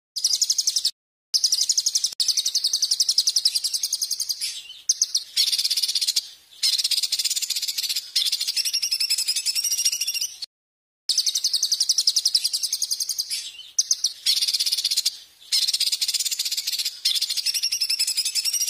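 A songbird giving loud, very fast high-pitched trills in long stretches broken by short pauses. It is a masteran recording meant for training caged songbirds, and the sequence of trills starts over about halfway through.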